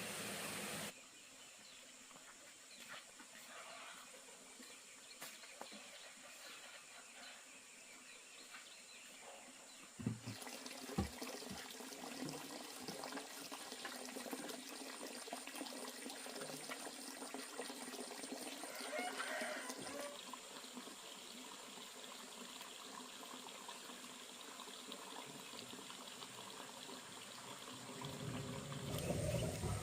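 Faint water sounds, trickling and light splashing, with scattered small taps and a few short knocks about ten seconds in.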